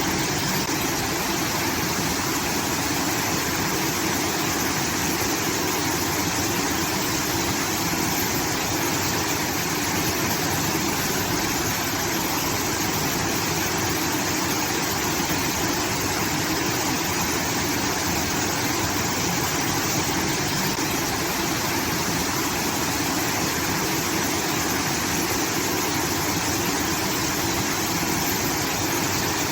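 Water pouring steadily from a rice-field irrigation outlet, a continuous rushing like a small waterfall.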